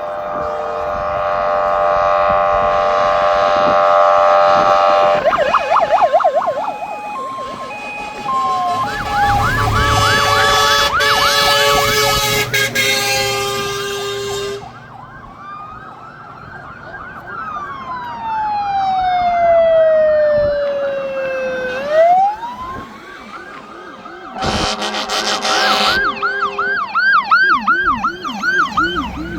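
Fire engine sirens sounding one after another as the vehicles pass: a two-tone hi-lo at first, then fast yelping sweeps, a long slow wail that falls and then shoots back up, and more yelping near the end, with steady horn tones mixed in.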